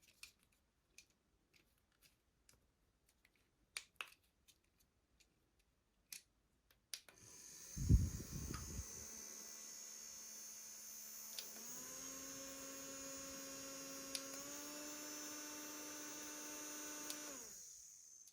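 Small clicks of handling, then a mini USB fan switched on with a click and running with a steady motor hum and a high whine, with a brief gust of its air on the microphone. Two more button clicks each step the motor up to a faster, higher-pitched speed, and a final click switches it off.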